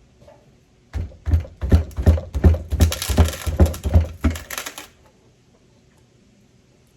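Quick series of sharp metal knocks, about three a second for nearly four seconds, from tapping on a 1978 Ford power steering box to drive out its old seals.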